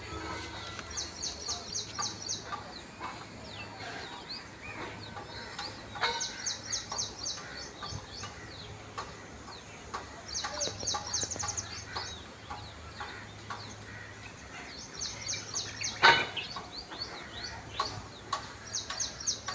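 Kingfisher calling: a rapid high trill of many quick notes, about a second long, repeated five times at intervals of four to five seconds. Other scattered bird notes and clicks sound between the trills, and a sharp knock comes near the end.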